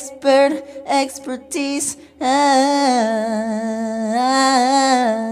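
A single voice singing unaccompanied: a few short, choppy syllables, then one long held note that drops a step in pitch partway through.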